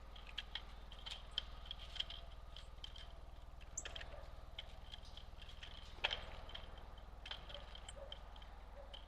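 Small birds at a feeder: faint short chirps repeated at irregular intervals and scattered sharp clicks, with one brief high note about four seconds in and a sharper click about six seconds in, over a steady low hum.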